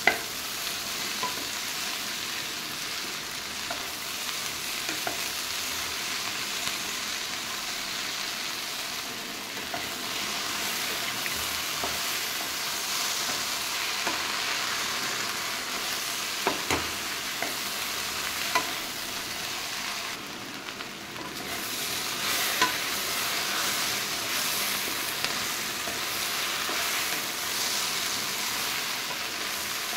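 Chopped okra and onion frying in oil in a metal kadai over full flame, sizzling steadily while a wooden spatula stirs and tosses them, with a few sharper knocks of the spatula against the pan in the second half.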